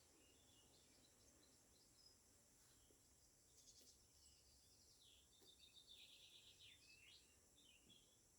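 Faint birdsong: scattered short chirps, a brief high trill about three and a half seconds in, and a fast rattling trill from about five to seven seconds in, over a faint low rumble of wind.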